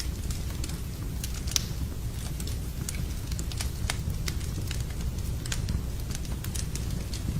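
Wood fire burning in a fireplace, crackling with irregular sharp pops over a steady low rumble; one pop stands out about one and a half seconds in.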